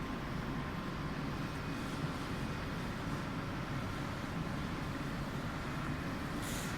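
Tunnel car wash machinery running with a steady drone, and a short burst of hiss near the end.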